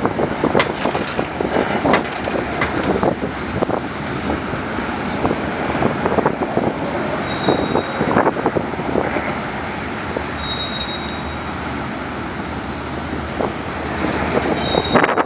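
A car driving slowly, with steady road and wind noise and frequent knocks and rattles. Three short high beeps sound in the second half.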